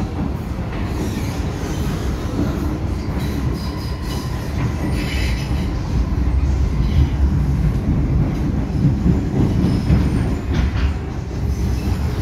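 Cabin sound of an MTR M-Train electric multiple unit running on elevated track: a steady low rumble of wheels on rail, with a brief higher wheel squeal about five seconds in and the rumble growing slightly louder from about six seconds in.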